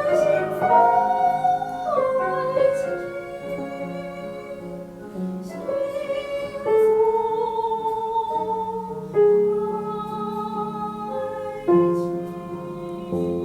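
A woman singing long, held notes in an operatic style with vibrato, over piano accompaniment. Fresh piano chords come in about nine and again about twelve seconds in.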